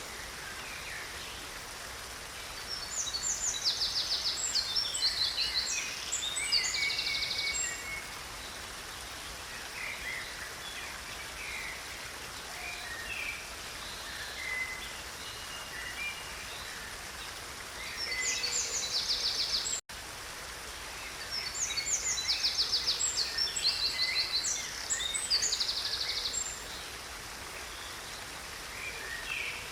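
A stream running steadily, with songbirds singing over it: two bouts of rapid high trills and chirps, one a few seconds in and one after a brief dropout about two-thirds of the way through, with scattered chirps between.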